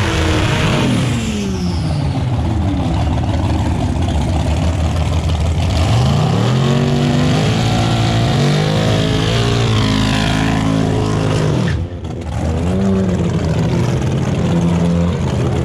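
High-performance car engines under hard acceleration in a drag race. The pitch falls off at the start, then climbs steeply about six seconds in, holds high and falls away. An abrupt cut near the end gives way to another engine running.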